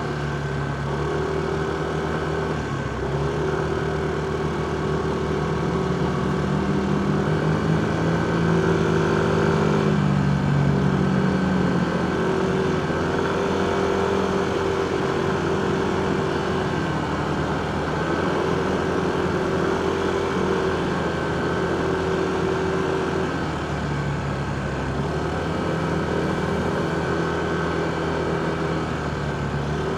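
Motorcycle engine running while riding in city traffic, its pitch rising and falling gently with the throttle and a little louder about a third of the way in, over steady road and traffic noise.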